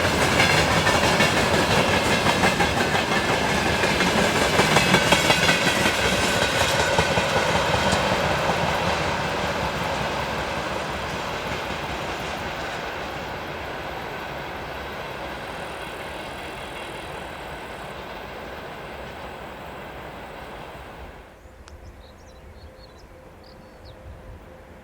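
Freight train wagons rolling past with the rhythmic clickety-clack of wheels over rail joints, loudest in the first several seconds and then fading as the train moves away. About 21 seconds in the sound drops abruptly to a much quieter background with a few faint high chirps.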